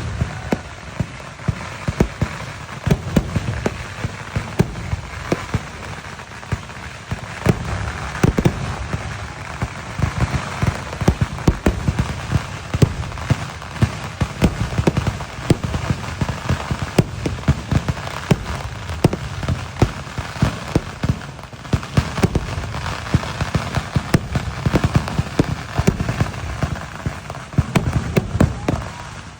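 Kerala temple fireworks (vedikkettu) going off in a dense, unbroken barrage: many sharp bangs a second over continuous crackling.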